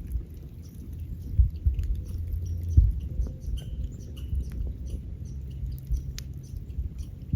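Wood fire crackling and popping over a low rumble, with two heavier thuds in the first three seconds.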